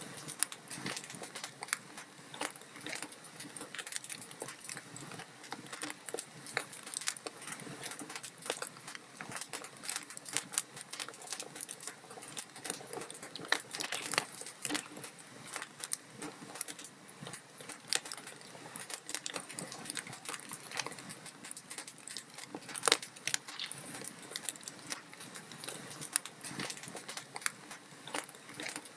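Log fire in a fireplace crackling steadily: dense, irregular snaps and pops of burning wood over a soft hiss, with a few sharper pops standing out, one about halfway through and one near the end.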